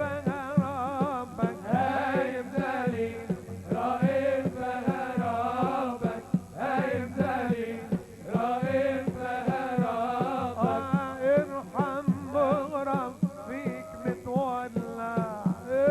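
Live Arabic wedding band playing an instrumental passage: an ornamented, wavering Middle Eastern melody over a steady drum beat.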